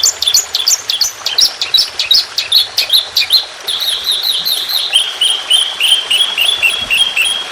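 Songbird song of the kind used as 'masteran' training audio: a fast run of sharp, varied chirping notes, which about three and a half seconds in becomes a rapid, even series of repeated notes that drifts slightly lower in pitch.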